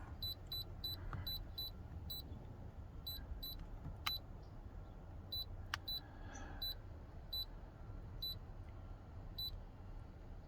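Handheld OBD-II code scanner beeping: about a dozen short, high-pitched beeps in two uneven clusters, with two sharp clicks about four and six seconds in. It is paging through stored trouble codes for ignition coil circuit fault P0351.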